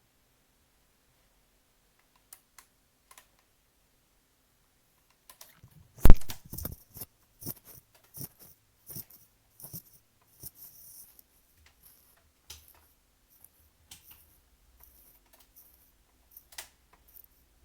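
Handling noises: one loud knock about six seconds in, then a run of light, irregular clicks and rattles, with a few scattered clicks later.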